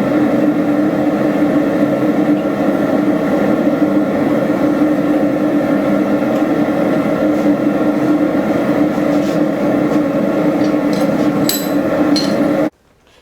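Blacksmith's forge running with a steady, loud roar, with a light metallic ping or two near the end before the sound cuts off abruptly.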